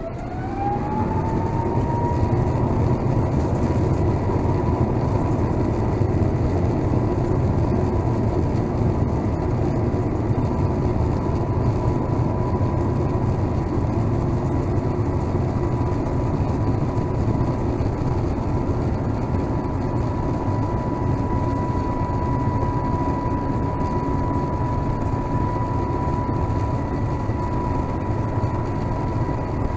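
Airbus A350-1000's Rolls-Royce Trent XWB-97 jet engines spooling up to takeoff thrust. A whine rises over the first two seconds, then settles into a steady high tone over a loud low rumble.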